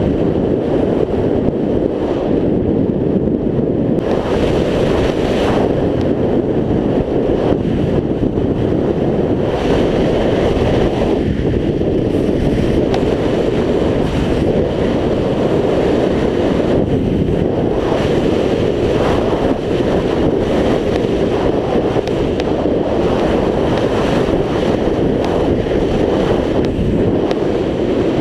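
Steady, loud wind rumble buffeting the microphone of a camera riding on a moving scooter.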